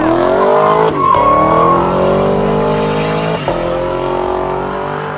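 A car engine revving up and held at high revs during a burnout, with tyres squealing; the revs briefly dip about a second in and again past three seconds.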